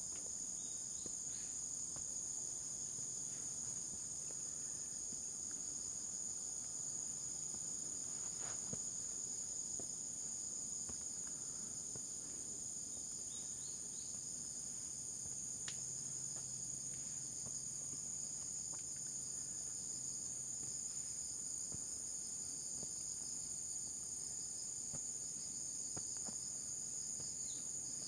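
A steady, high-pitched chorus of insects, continuous and unchanging, with a few faint short chirps.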